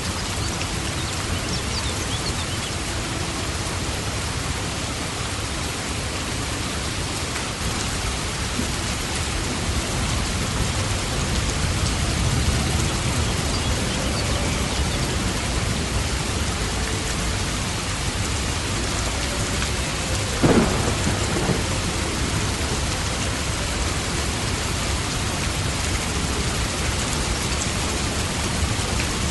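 Steady rain falling in a thunderstorm. A low rumble of thunder swells in the middle, and about twenty seconds in a sudden sharp crack is the loudest moment.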